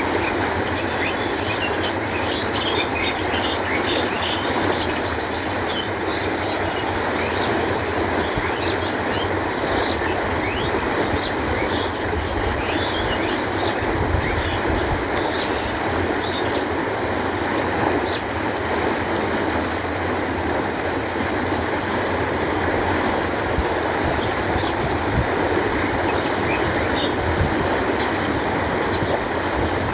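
Canal water flowing with a steady rush. Short, high chirps of small birds come through it, most of them in the first half.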